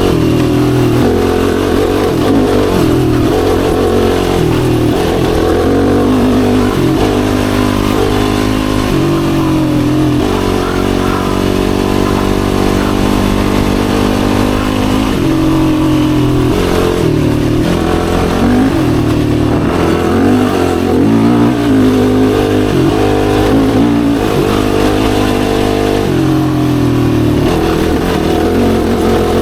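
Yamaha YFZ450R quad's single-cylinder four-stroke engine under way, the revs rising and falling again and again as the throttle is worked, with a steadier stretch of even running near the middle.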